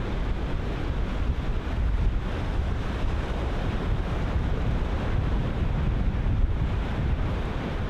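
Ocean surf breaking and washing in, heard under gusty wind buffeting the microphone, which adds a heavy low rumble.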